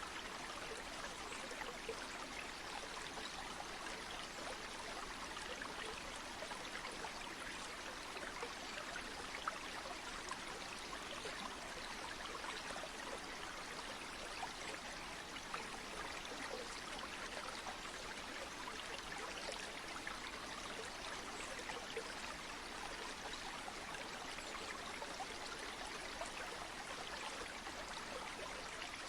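Steady rushing of a flowing stream or river, an even water hiss with fine trickling detail and no pauses.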